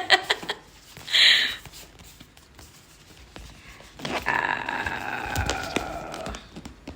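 Gift box being handled and worked at: a brief rustle about a second in, then a drawn-out squeaky scrape from about four seconds in that slowly falls in pitch.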